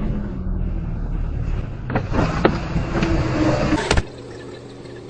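Motor vehicle driving, with steady engine and road noise. A few sharp clicks come about two seconds in, and a sharp knock comes near the four-second mark, after which the sound goes quieter.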